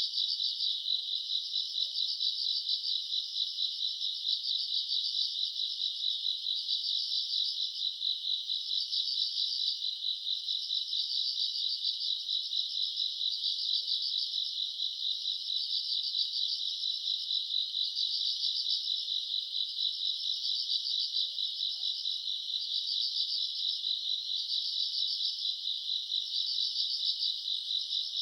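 Summer-night chorus of grass insects, crickets among them: a continuous high-pitched trilling that swells and eases every second or two.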